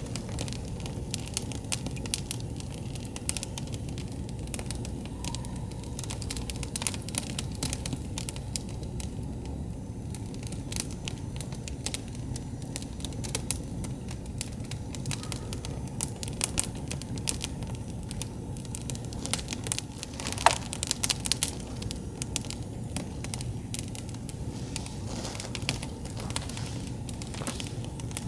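Wood campfire burning, with dense, irregular crackles and pops over a low steady rumble. About twenty seconds in there is a louder sharp pop with a brief falling whistle.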